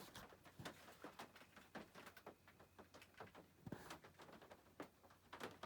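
Faint, irregular patter of raindrops on the roof of a converted short bus.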